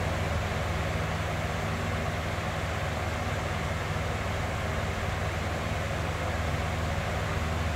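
Box fan running steadily: an even rush of air with a deep, low hum beneath it.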